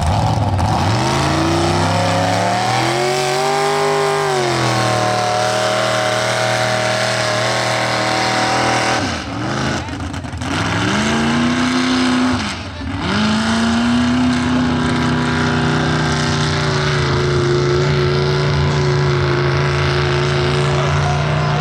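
Engine of a mud-bog 4x4 truck on tractor tires running hard through the mud: the revs climb in the first few seconds and hold high, drop sharply twice about halfway through and pick back up, then stay steady and high.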